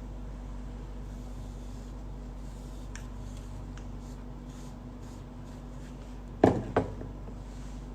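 A steady low hum with two quick knocks close together near the end.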